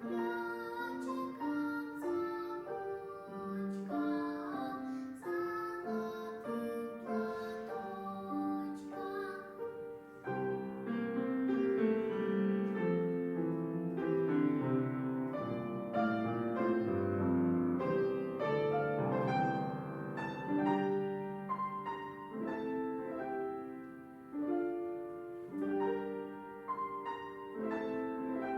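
A child singing a Russian folk-style song with piano accompaniment.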